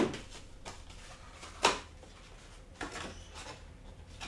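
A few sharp knocks and clicks from handling the monitor's parts and packaging, the loudest about one and a half seconds in.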